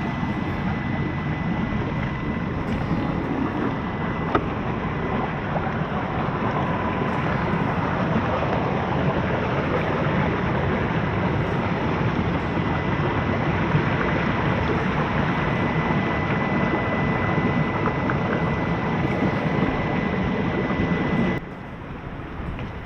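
Traxxas TRX4M mini RC crawler being driven, its small electric motor giving a faint steady high whine under a heavy rush of wind noise on the microphone. The noise drops abruptly near the end.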